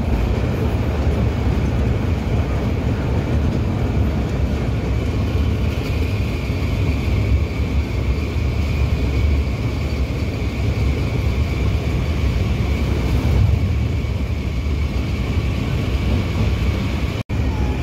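Steady rumble and rush of a train running over a steel rail bridge, heard from a carriage window. The sound cuts out for an instant near the end.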